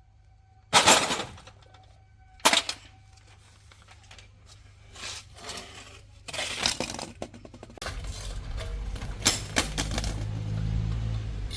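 Sharp metal clanks and knocks, as of heavy parts and tools being handled in a truck repair, two loud ones in the first few seconds and smaller clusters later. About eight seconds in a low steady rumble sets in under them.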